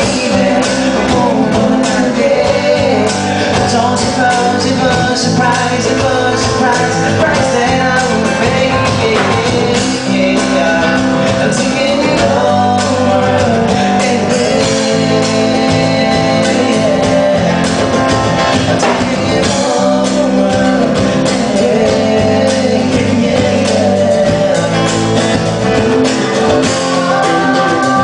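A live rock band playing a pop-rock song, with guitar, loud and continuous.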